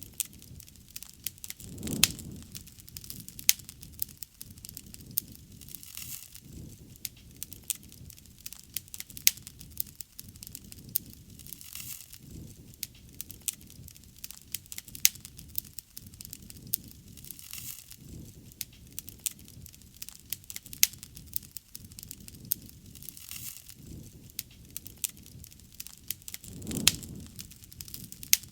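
Wood bonfire burning, crackling with many sharp pops and snaps over a low rushing sound. The rushing swells louder briefly, once about two seconds in and again near the end.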